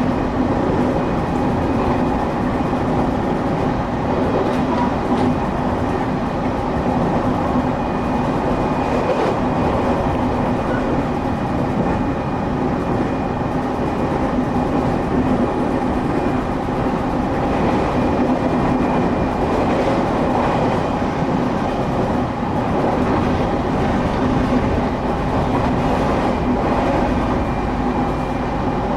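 Passenger cabin of a Shin'etsu Line local train running between stations: steady rumble of the wheels on the track, with a steady hum and a faint high whine.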